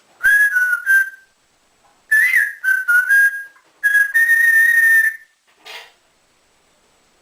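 African grey parrot whistling: three whistled phrases, the last a held note of over a second that rises slightly, followed by a short scratchy sound.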